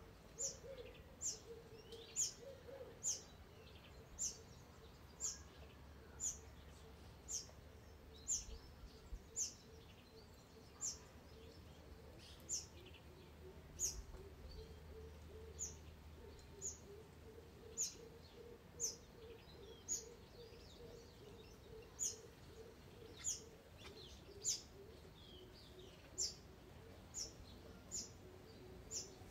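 A bird repeating a short, high, down-slurred call note about once a second, over a fainter, lower pulsing bird call.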